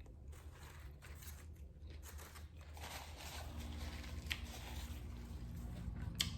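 Faint close-miked eating sounds from a Subway sub, soft crunching and rustling with two sharp clicks about four and six seconds in, over a low steady hum.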